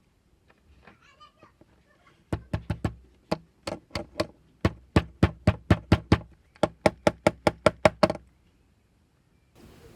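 A rapid series of sharp knocks, about four or five a second, in several bursts. They begin about two seconds in and stop about eight seconds in, after a few faint clicks.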